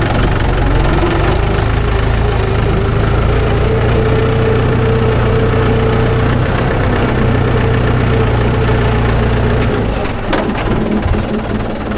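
Mahindra 415 DI tractor's diesel engine running steadily under load as it pulls a loaded trolley slowly over stones. About ten seconds in the engine eases off and a few sharp knocks are heard.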